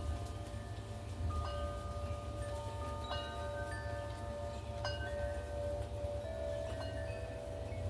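Wind chimes ringing in gusty wind: several metal tones struck at irregular moments and left to ring on, over a steady low rumble.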